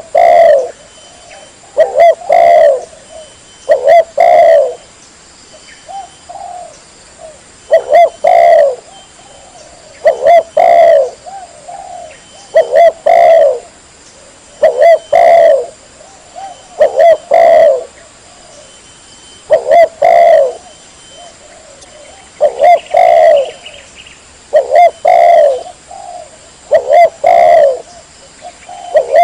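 Spotted dove cooing, a short phrase of two or three coo notes repeated about every two seconds.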